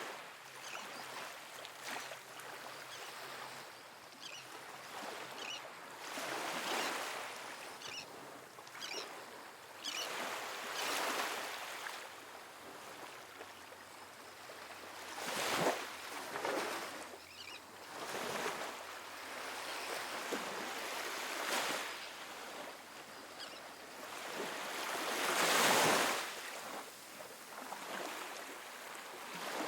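Calm ocean waves washing onto a sandy beach. Each wave swells and fades away every three to five seconds, and the largest comes near the end.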